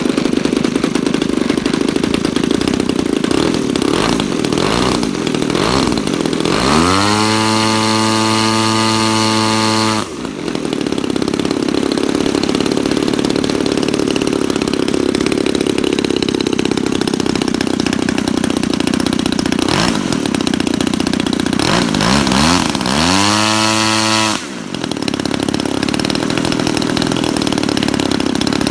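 DLE 30cc single-cylinder two-stroke petrol model-aircraft engine running at idle, twice opened up to high revs for a few seconds and then throttled back sharply to idle.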